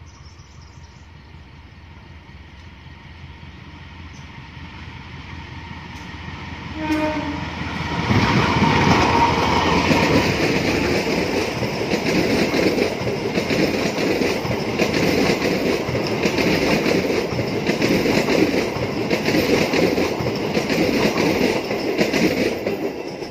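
A diesel-hauled passenger train approaches and passes close by. Its rumble grows, and the locomotive's horn sounds a greeting from the driver about seven seconds in. The coaches then roll past loudly for about fifteen seconds before fading near the end.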